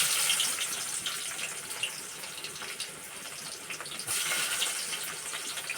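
Onions sizzling in hot cooking oil in a pan: a steady hiss with small crackles. It is loudest as they go in, eases, then swells again about four seconds in.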